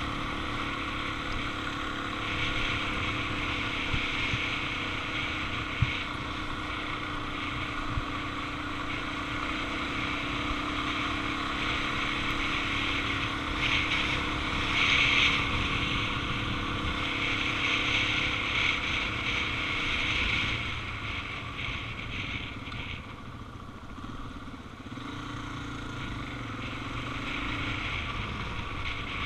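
Suzuki DR-Z400's single-cylinder four-stroke engine running steadily on the move, with wind rushing over the microphone. It eases off for a few seconds about two-thirds of the way through, then picks up again.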